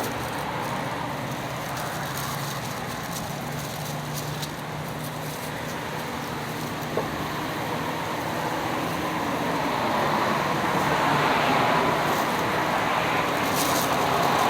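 Steady road traffic noise that swells louder about ten seconds in, with a single short click about seven seconds in.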